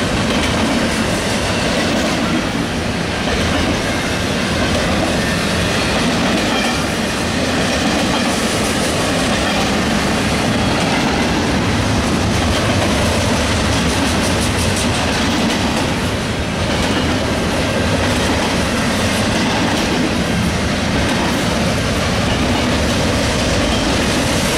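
Double-stack container train's well cars rolling past: loud, steady rumble and rattle of steel wheels on the rails.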